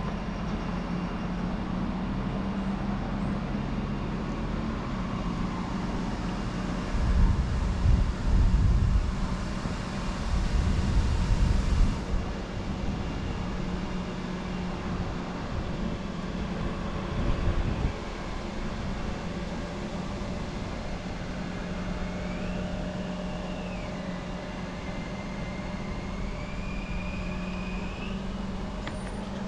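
A heavy engine running steadily, most likely the crane's, with a deeper rumble swelling for a few seconds about a quarter of the way in. A faint wavering whine rises and falls near the end.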